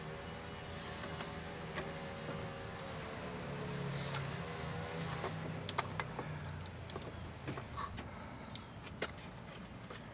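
Scattered metal clicks and knocks as an AC compressor is worked loose from a car's engine bay, with a few sharper knocks about six seconds in and again near nine seconds, over a steady low hum.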